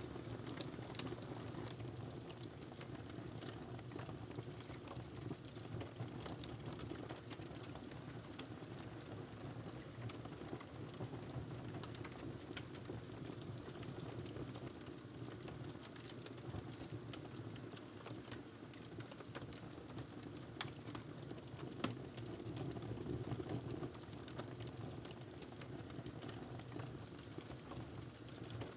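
Wood fire crackling in a fireplace: a steady low rumble of flames with scattered sharp pops and snaps, a couple of louder pops toward the end.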